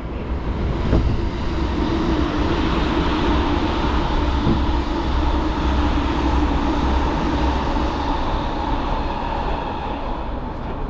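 Electric commuter train running, a steady rumble with a motor hum that swells about a second in and eases near the end.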